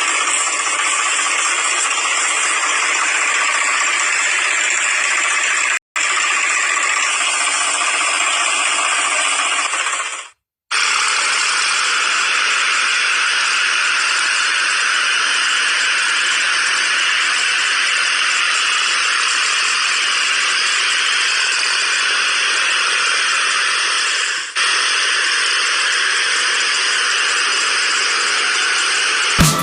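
A machine's engine running steadily with a rattling mechanical clatter. It cuts off sharply twice, about six and about ten seconds in, and after the second cut it is steadier.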